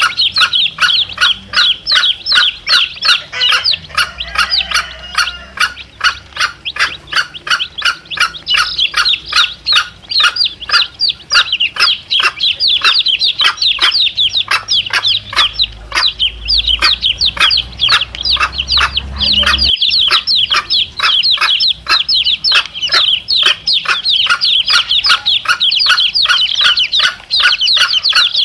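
Chicks peeping without a break: short, high, slightly falling peeps, several a second, with a mother hen clucking among them.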